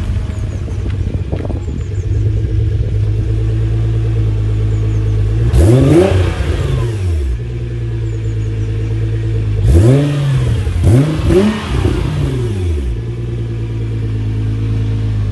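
Nissan GT-R's twin-turbo V6 idling steadily, blipped three times: once about five seconds in, then twice in quick succession about ten seconds in, the revs rising and falling back to idle each time.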